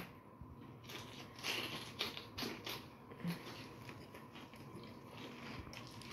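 Faint biting and chewing of cream-cheese-stuffed sweet bell peppers, with a few short crunchy clicks about one and a half to three seconds in.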